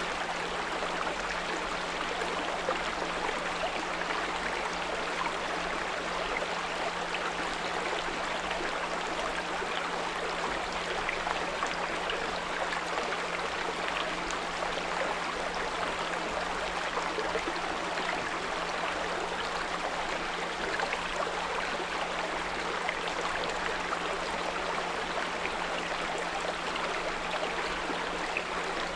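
A small brook babbling steadily, with a steady low pure tone of 174 Hz running under it.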